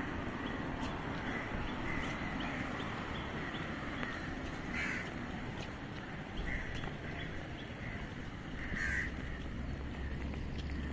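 Birds calling, short calls repeated every second or so over a steady rumble of road traffic. A low engine hum joins near the end.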